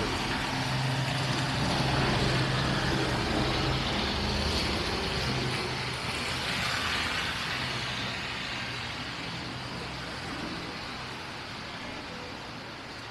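A road vehicle's engine running with a low steady hum over a wash of street traffic noise, slowly fading away.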